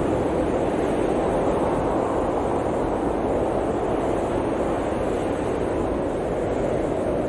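Blizzard wind rushing steadily, a dense, even roar that swells and eases slightly.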